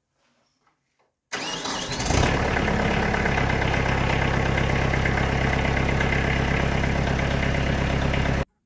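Kubota diesel tractor engine cranked on the starter after glow-plug preheat, catching within a second and settling into a steady idle. The sound cuts off suddenly near the end.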